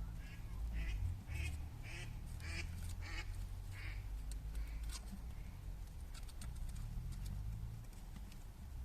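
An animal calling in a quick run of about eight quack-like calls, about two a second, that stops about four seconds in. It is followed by a scatter of faint sharp crackles over a steady low rumble.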